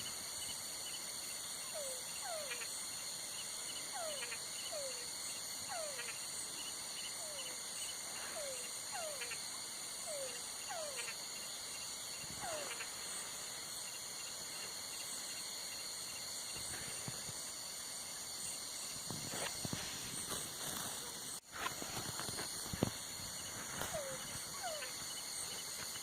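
Night insect chorus of crickets, a steady high-pitched drone, with an animal giving short downward-sliding calls about once a second through the first half and again near the end. A brief dropout and a few clicks come a little past twenty seconds in.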